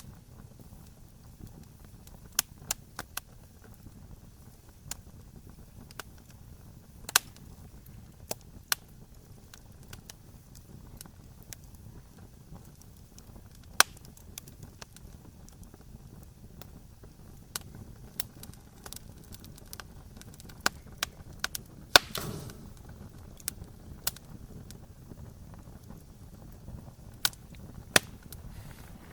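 Campfire crackling: irregular sharp pops and snaps of burning wood over a low steady rumble of flame, with one louder snap about two-thirds of the way through.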